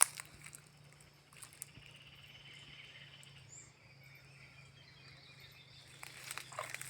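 Faint outdoor nature ambience: a high insect-like trill with a brief bird chirp over a low steady hum, and a few crunching sounds near the end.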